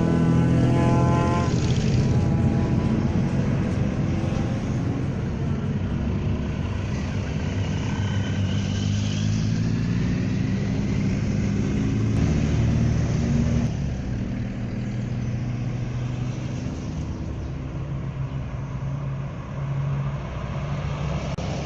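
Engines of classic cars and motorcycles running and moving, with their pitch shifting up and down as they go; a little quieter over the last few seconds.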